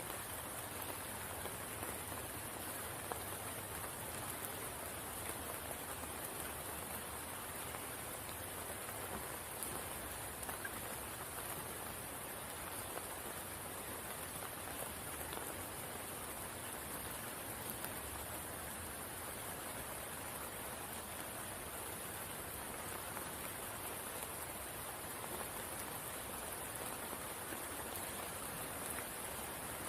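Steady rain falling on a spring pool, an even hiss with scattered drop ticks.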